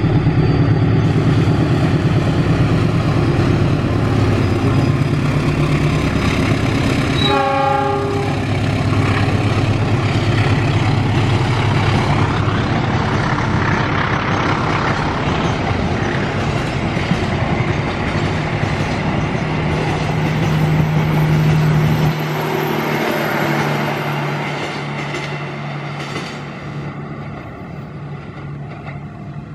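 Passenger train hauled by a diesel-electric locomotive passing close by: the engine drones while the wheels rumble and clatter on the rails, with a short horn blast about seven seconds in. The engine drone drops out about twenty-two seconds in as the locomotive goes past, and the coaches roll on and fade away.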